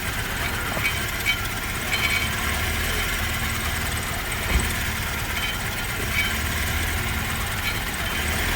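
Car engine idling rough, its low rumble rising and falling unevenly as the engine shakes, with one short knock about four and a half seconds in. The scan points to a faulty intake air temperature sensor as the cause of the violent shaking.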